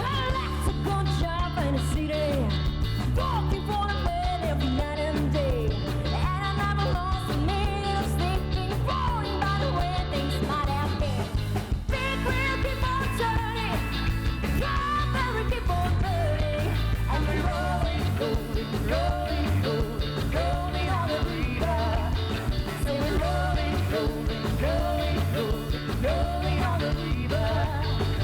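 Live rock band playing: drums and bass keep a steady beat under a lead line that bends up and down in pitch.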